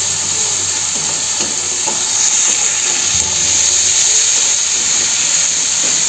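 Chopped tomato and onion sizzling in hot oil in a steel kadai, stirred with a metal spatula that scrapes the pan now and then.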